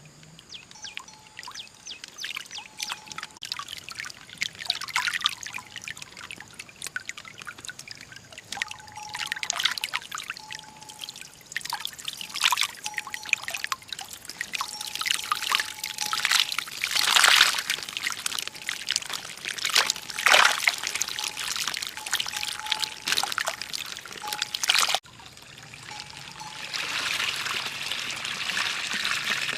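Water splashing and pouring in irregular gushes, loudest in two splashes about two-thirds of the way through. It cuts off sharply near the end into a steadier trickle.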